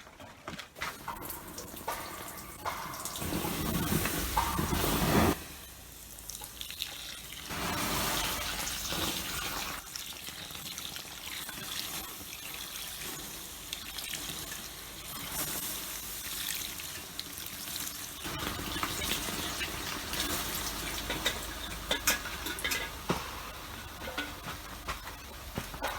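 Water pouring in a steady stream for a couple of seconds, stopping abruptly about five seconds in. It is followed by a steady hiss with scattered small clicks and knocks.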